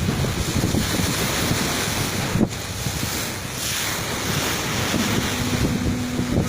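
Wind buffeting the microphone over the rush of sea water around a boat, a heavy rumbling noise. A steady low hum comes in about five seconds in.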